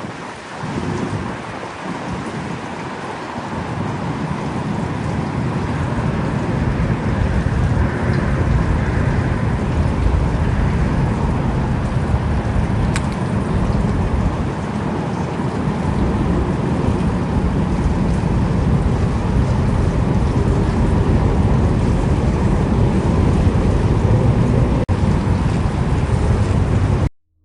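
Thunderstorm: heavy rain with a low rumble of thunder that builds over the first few seconds and holds, then cuts off abruptly near the end.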